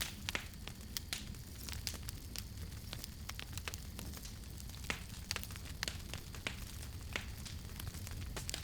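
Campfire burning with irregular crackles and pops from the burning wood, over a steady low rumble.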